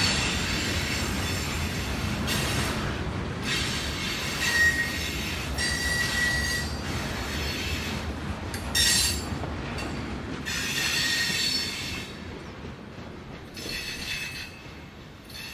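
Freight cars of a long train rolling slowly past on the rails with a steady rumble, their wheels squealing in repeated high-pitched spells. The sound drops away near the end as the last car goes by.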